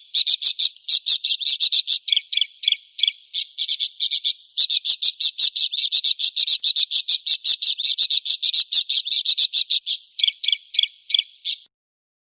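Recorded bird call: a long, fast run of short, high, buzzy chirps, several a second, thinning out for a couple of seconds early on and stopping shortly before the end.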